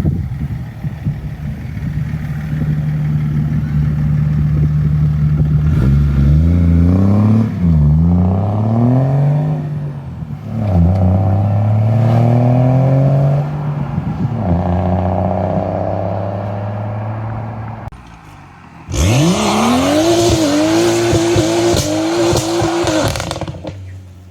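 Car engines at a modified-car meet: a steady idle, then a car accelerating away, its pitch climbing and dropping back several times as it shifts gear. About 19 seconds in comes a louder, rasping burst of hard revving, held high with a wavering pitch for a few seconds before it cuts off.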